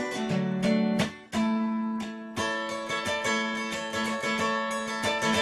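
Instrumental break of a folk-style song: acoustic guitar being picked and strummed over a held low note, with a short drop in level about a second in.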